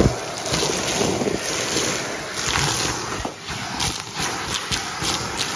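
Vacuum cleaner running, its hose sucking up a spilled mix of debris, with scattered small clicks and ticks of bits rattling through.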